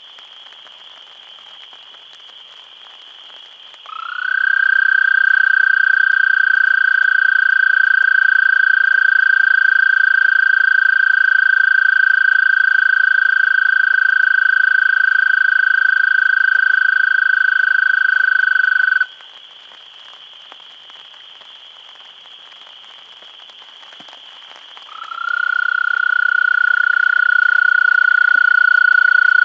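Male American toad giving his long, steady, musical trill (advertisement call): one trill of about fifteen seconds that stops abruptly, then a second trill starting near the end. Under it runs a steady high-pitched background chorus.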